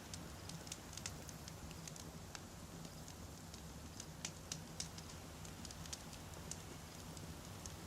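Wood campfire burning, with frequent small, sharp crackles and pops at irregular intervals over a steady low rumble.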